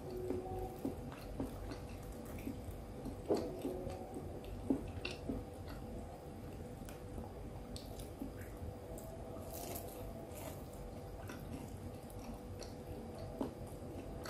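Faint chewing of a fried, breadcrumbed risol mayo filled with egg and sausage: soft mouth sounds with small scattered clicks.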